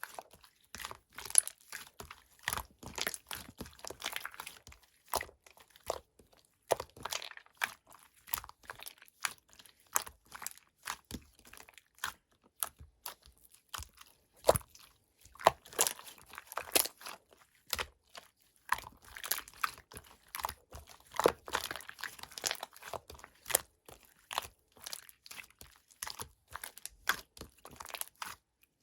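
Slime being squished and worked by hand, making irregular sticky clicks and pops of trapped air, with short crinkly stretches a few times.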